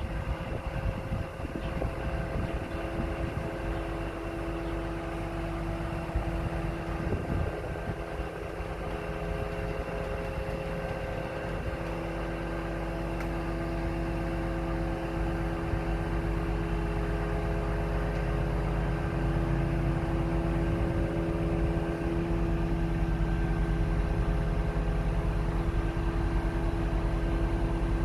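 Scania R500 truck's engine running steadily with a steady whine over it, growing a little louder about halfway through.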